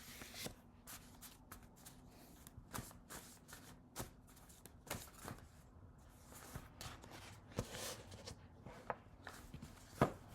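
A deck of cards being shuffled by hand: soft, irregular slaps and rustles of cards, with a sharper click near the end.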